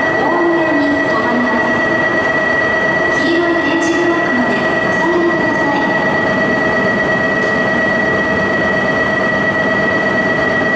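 Shinkansen train at an underground platform: a steady, loud rush of train noise with a steady high-pitched tone running through it. Faint voices can be heard here and there.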